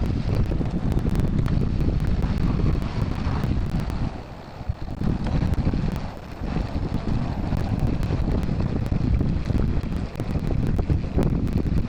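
Wind buffeting the microphone while riding along a cycling course: a steady low rumble that eases briefly about four and a half seconds in.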